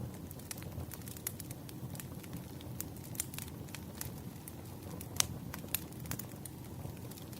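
Firewood burning: irregular crackles and snaps over a steady low rumble, with one sharper pop about five seconds in.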